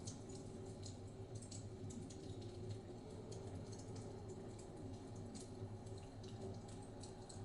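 Wood fire crackling in a fireplace: quick, irregular little pops and snaps over a low, steady rumble.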